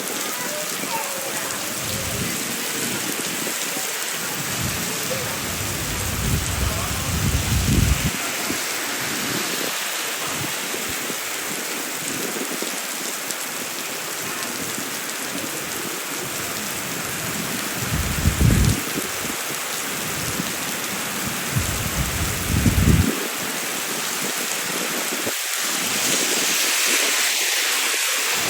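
Heavy rain falling steadily, a dense even hiss. Three short low rumbles rise over it, about a quarter of the way in, around two-thirds of the way in, and shortly after.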